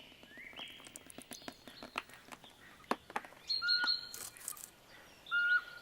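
Songbirds singing in a forest: two short whistled phrases of sharp, clear notes, about halfway through and again near the end, over faint scattered ticks and scratches.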